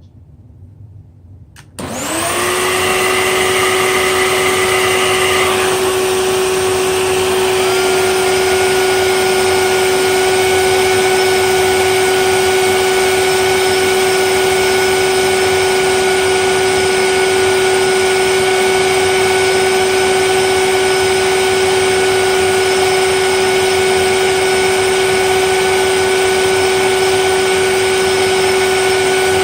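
Hoover TurboPOWER 5000 canister vacuum motor switched on about two seconds in, spinning up quickly to a loud steady whine, running with no bags or filters fitted. Its tone shifts slightly a few seconds after start-up, then holds steady.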